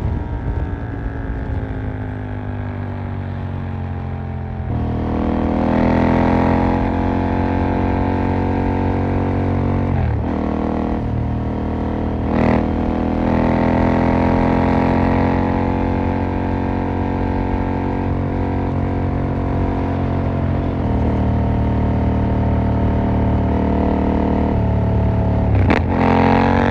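KTM 890 Duke R parallel-twin engine under way: revs falling off for the first few seconds, then picking up and climbing steadily, with short breaks in the note for gear changes about ten and twelve seconds in and again near the end.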